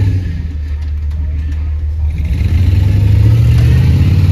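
Off-road Jeep's engine running under load as it crawls over dirt and roots, revving higher about halfway through.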